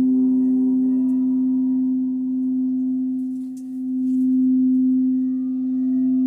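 Crystal singing bowl ringing a sustained low tone with fainter overtones above it, its loudness slowly swelling and dipping.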